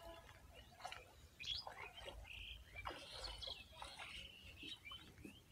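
Birds chirping faintly: a scatter of short calls with quick rising and falling notes, over a low rumble.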